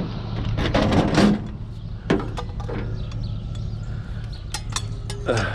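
A steady low engine hum under a series of knocks and clicks, with a louder rattling clatter about a second in.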